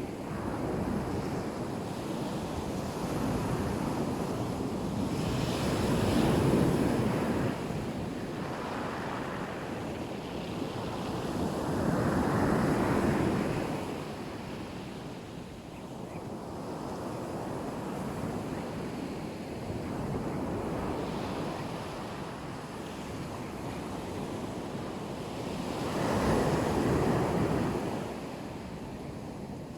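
Black Sea waves breaking on the shore, a steady wash of surf that swells three times into louder breakers. Wind buffets the microphone throughout.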